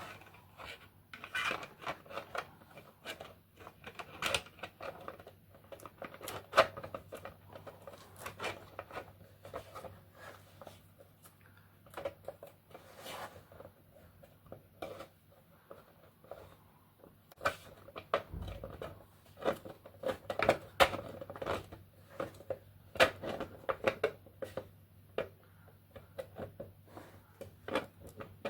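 Irregular light clicks and taps of 3D-printed plastic mask pieces being handled and pushed together to fit one part into place.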